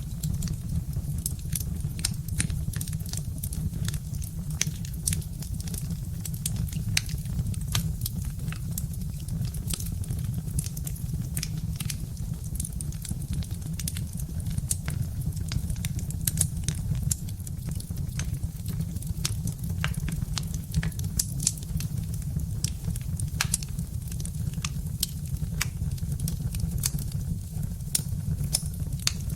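Birch-wood fire burning in a fireplace, crackling with many irregular sharp pops and snaps over a steady low rumble.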